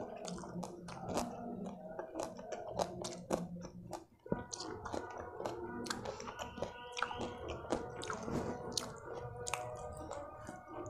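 Close-miked chewing of food in the mouth: a steady run of wet mouth clicks and smacks.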